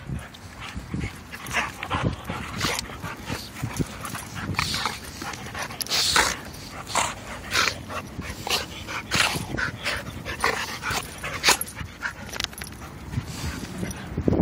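A puppy and an older dog play-fighting: a dense, irregular run of short dog noises.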